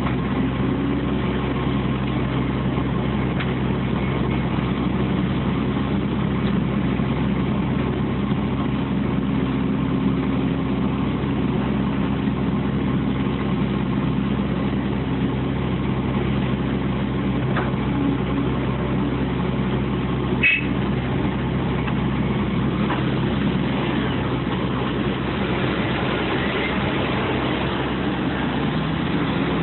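Heavy diesel engines of a CAT 365CL excavator and a CAT 740B articulated truck running steadily during loading, with one sharp metallic clank about twenty seconds in.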